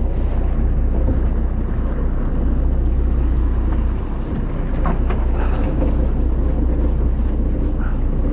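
Wind buffeting the microphone in a storm at sea: a steady, loud low rumble.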